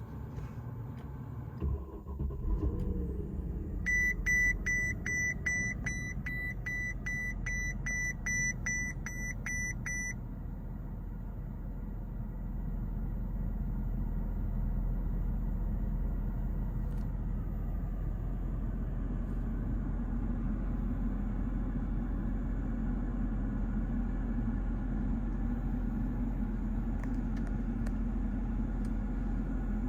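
Mercedes-Benz S 550's V8 cold-starting: it cranks and catches about two seconds in, then settles into a steady idle. For about six seconds after the start, the car's warning chime beeps repeatedly, a little over two beeps a second.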